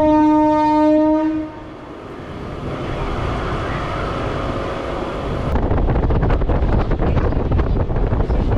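Electric suburban train's horn sounds once, a single steady note lasting about a second and a half. Then the train runs along the track, its rumble and wheel clatter growing louder from about five and a half seconds in.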